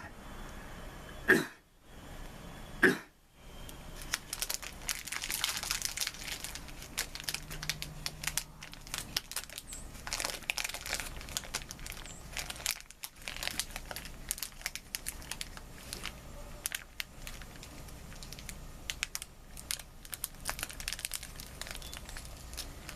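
Crinkling and rustling of a snack wrapper being handled, with two short louder sounds about a second and three seconds in.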